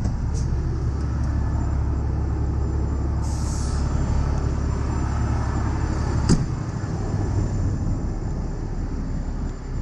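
Heavy truck engine running with a steady low rumble. A short burst of air hiss comes about three seconds in. A sharp knock follows about six seconds in, after which the rumble drops away.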